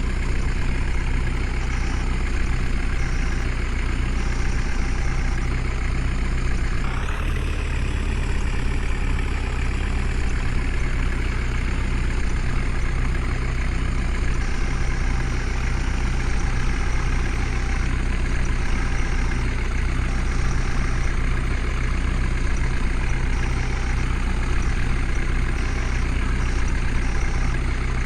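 Heavy diesel engine running steadily, with one brief rise in pitch about a quarter of the way in that then slowly settles back.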